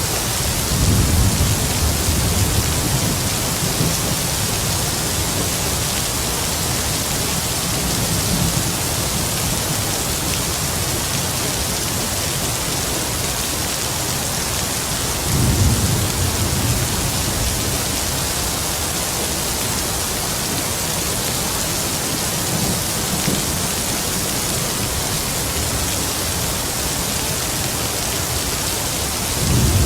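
Heavy rain falling steadily, with distant thunder rumbling low several times: about a second in, in the middle, faintly later, and again at the very end.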